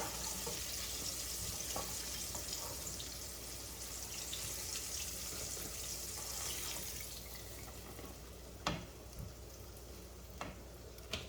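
Hot cooking oil sizzling in a frying pan as a steady hiss that dies down after about seven seconds, followed by a few sharp clicks near the end.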